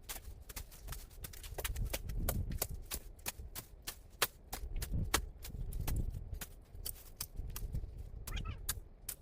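Irregular sharp clicks and knocks, several a second, over a low rumble.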